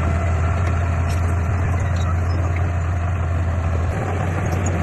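Heavy diesel engine running steadily with a deep, constant drone.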